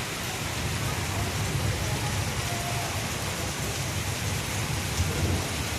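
Heavy rain pouring steadily, an even hiss of downpour with a low rumble beneath it.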